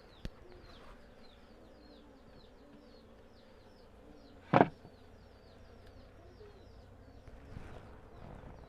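Honeybees buzzing faintly at a hive over a steady series of short, high, falling chirps, about three or four a second. A single loud knock about four and a half seconds in, and a small click near the start.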